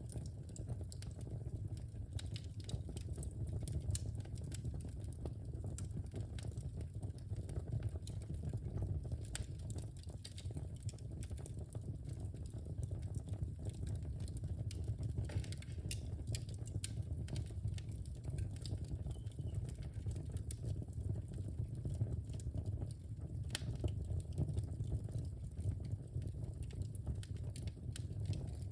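Wood fire burning in a fireplace: sharp crackles and pops come at irregular moments over a low, steady rumble.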